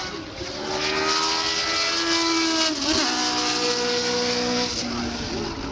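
Historic Formula 1 race car engine at high revs, climbing in pitch as the car approaches and dropping sharply as it passes about three seconds in, then running on at a lower pitch as it pulls away.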